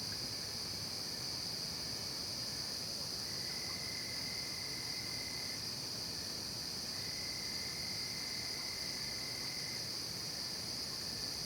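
Night forest insect chorus, crickets and similar insects: a steady high-pitched trilling. A lower, separate trill comes in for a few seconds twice, about three seconds in and again about seven seconds in.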